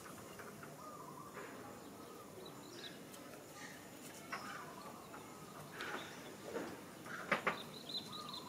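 Outdoor ambience with birds chirping faintly in the background, and a few short, sharp sounds, the loudest two in quick succession near the end.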